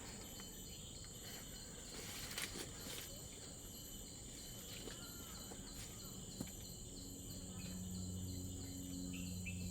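Forest insects chirring: a steady high drone with a second insect's pulsing call repeating about three times a second. A low steady hum comes in about seven seconds in.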